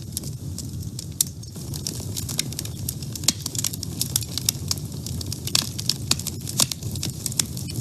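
Wood fire burning in a woodstove: frequent sharp crackles and pops over a steady low rumble of flame.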